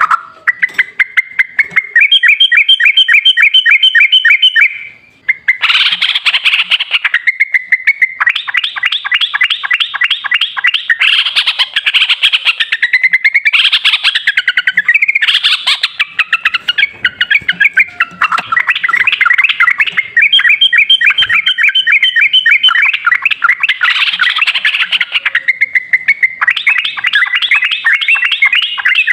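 Sooty-headed bulbul (trucukan) singing: loud, fast runs of repeated chattering notes with almost no pause, broken by a short gap about five seconds in.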